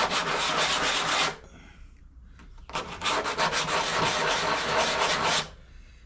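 Sandpaper on a small sanding block rubbed back and forth over a 1940 Packard's front brake wheel-cylinder piston, in two spells of strokes with a short pause between. It is scuffing deposits off the piston so it will slide smoothly in the bore.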